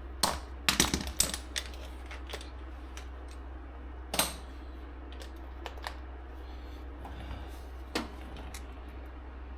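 Hand tools and metal parts being handled: a quick run of sharp clicks and clinks in the first second and a half, then single knocks about four and eight seconds in, over a steady low hum.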